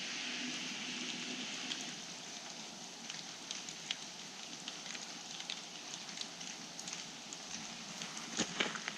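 Steady light rain in a forest: an even hiss with scattered drops ticking, a few louder taps near the end.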